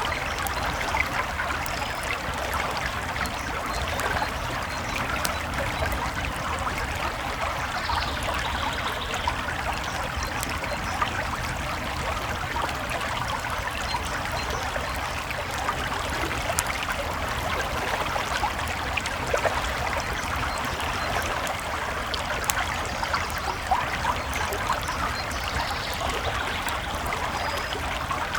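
A creek flowing steadily, with a campfire crackling over it in scattered sharp pops and clicks.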